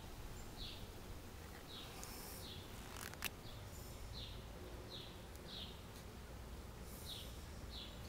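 A bird repeating a short, high, falling chirp every half second to a second over faint outdoor background noise, with a single sharp click about three seconds in.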